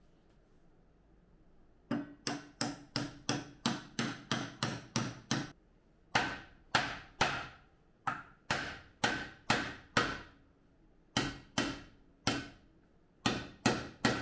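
Hammer blows on metal, starting about two seconds in and coming in runs of several quick strikes, about three a second, with short pauses between runs. Each blow rings briefly.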